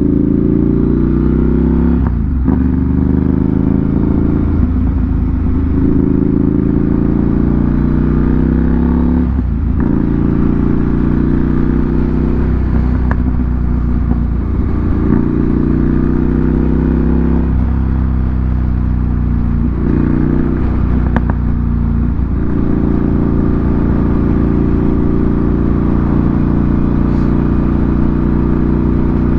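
Ducati Monster 797's air-cooled L-twin engine through an SC Project aftermarket exhaust, riding under way: the engine pitch climbs and drops back several times as the rider changes gear, then holds steady at a constant speed for the last several seconds.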